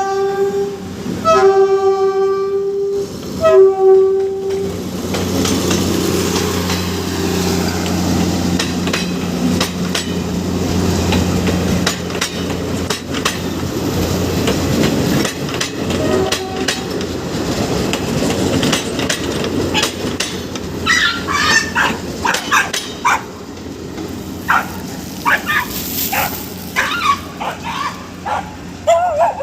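Diesel commuter train sounding its horn in three blasts, the last one short, then running past with an engine drone and wheels clicking over the rail joints. Dogs bark in short yelps near the end.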